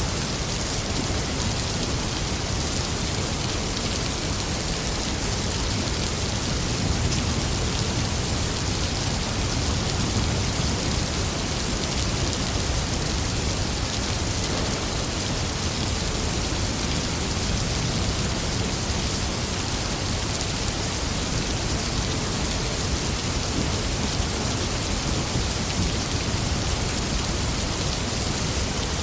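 Steady rain pouring down, with a low rumble of thunder underneath.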